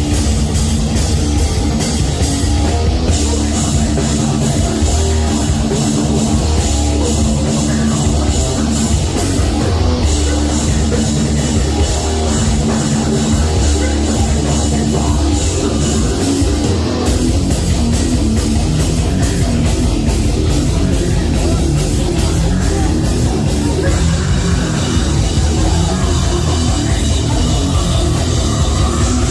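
Live heavy metal band playing loud: distorted guitars, bass and drum kit running through a repeating low riff.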